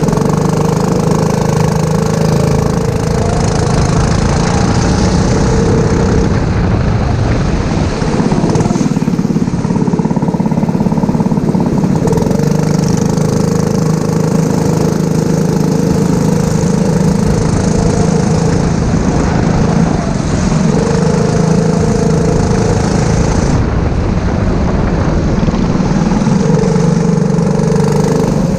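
Small four-stroke kart engine running at race pace, its pitch rising and falling again and again as it revs up and drops off.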